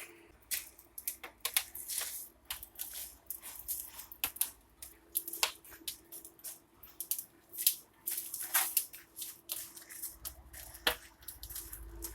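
Wood fire burning in the firebox of a brick fireplace, crackling and snapping irregularly, with a faint steady hum underneath.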